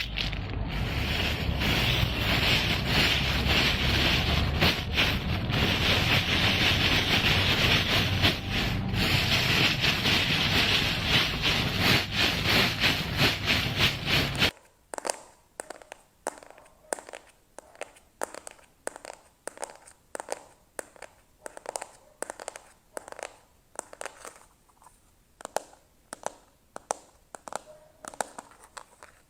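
Close-miked ASMR trigger sounds: a dense, continuous scratching and crackling that cuts off suddenly about halfway through, giving way to sparse soft clicks, about two a second.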